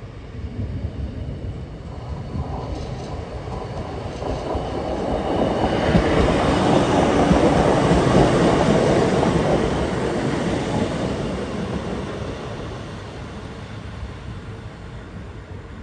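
Class 150 Sprinter diesel multiple unit running past on the line: engine and wheel noise build, are loudest about six to nine seconds in as the train passes close, then fade as it moves away.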